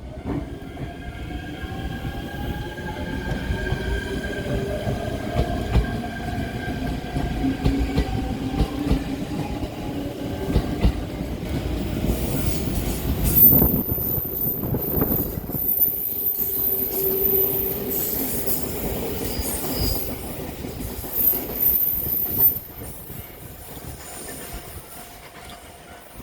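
Electric train pulling away from a station, its motor whine climbing slowly in pitch for the first ten seconds. High wheel squeal follows through the middle, then the sound drops away sharply near the end.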